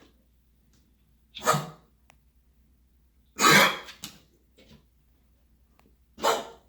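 A dog coughing: three short, harsh coughs about two seconds apart, the middle one the loudest.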